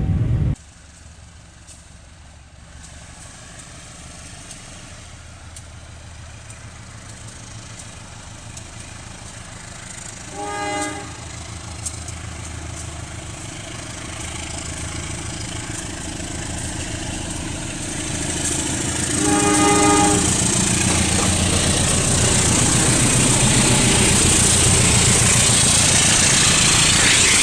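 A train approaching and passing at a level crossing: its rumble grows steadily, its horn sounds twice (about 10 seconds in and again about 19 seconds in, each blast about a second long), and from the second blast the passing train is loud and steady with wheel clatter. A louder sound cuts off abruptly about half a second in.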